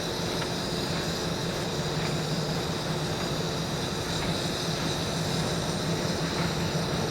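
A train running, with a steady low engine hum and a thin, steady high tone above it, slowly growing louder.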